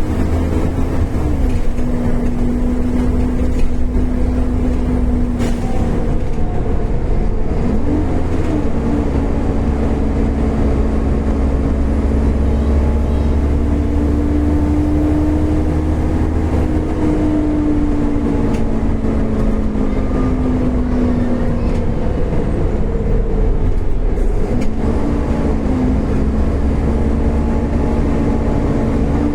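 Volvo B7TL double-decker bus under way: a steady low engine rumble with a whine that slowly rises and falls, dipping briefly about a second in, around eight seconds in and again near the end.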